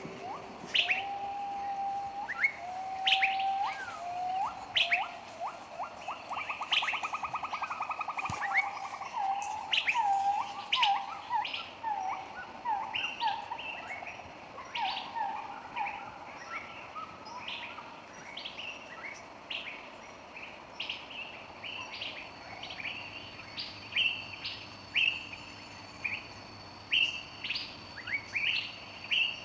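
Wild birds calling: repeated short, high, sharp chirps throughout, with a lower series of whistled calls and a rapid trill in the first half that dies away about halfway through.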